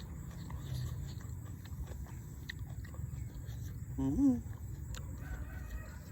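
A person chewing mouthfuls of papaya salad and crisp raw vegetables, with faint scattered crunches and mouth clicks. A short hummed 'mm' about four seconds in is the loudest moment.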